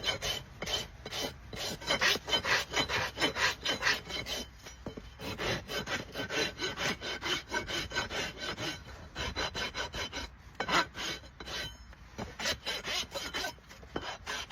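A farrier's rasp filing a Shire horse's hoof in quick repeated strokes, a few per second, with short pauses between runs.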